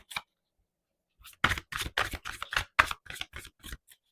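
A tarot deck being shuffled by hand: a quick run of papery card slaps, about six a second, starting about a second in and lasting a couple of seconds.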